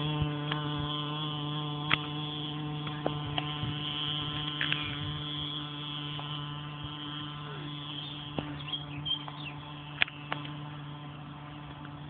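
Mini dirt bike's small engine droning at a steady pitch, slowly growing fainter, with a few sharp clicks.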